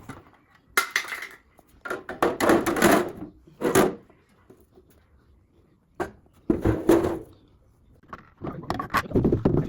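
Items being taken out of a refrigerator and handled: irregular bursts of rustling and clattering with knocks, separated by short pauses, including one sharp knock about six seconds in.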